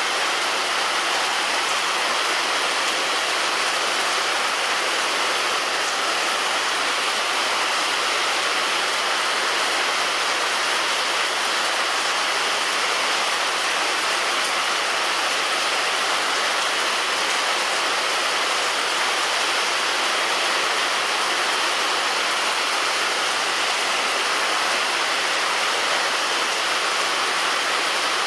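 Heavy rain falling on a roof, a dense, even hiss that stays steady throughout.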